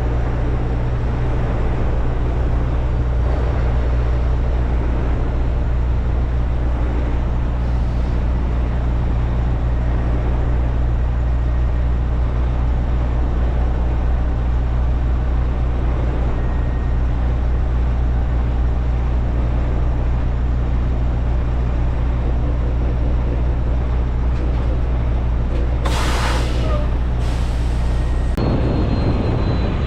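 Freightliner semi-truck's diesel engine running steadily, a loud, even drone. Near the end come two short bursts of hissing air, typical of the truck's air brake system releasing air.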